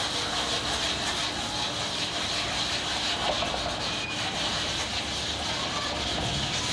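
A hand scrubbing citric acid or baking soda into the sanded metal surface of a refrigerator, giving a steady hissing rub to clean off rust.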